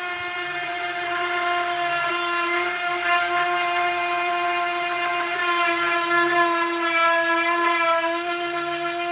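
Electric power sander running steadily against a wooden table top, a constant motor whine with a slight dip in pitch near the end as it takes more load.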